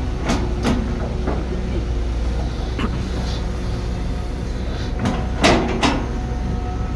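Heavy diesel construction machine running steadily with a low drone, with several metallic clanks and knocks, the loudest pair about five and a half seconds in.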